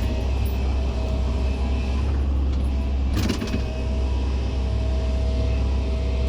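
Excavator's diesel engine running steadily under load, with a brief clatter a little over three seconds in.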